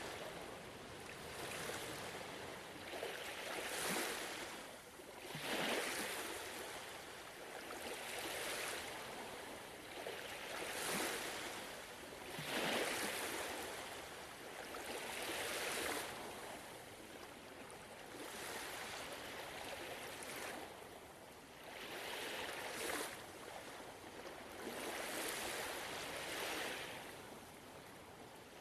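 Gentle ocean waves washing onto a shore, the hiss swelling and easing every few seconds.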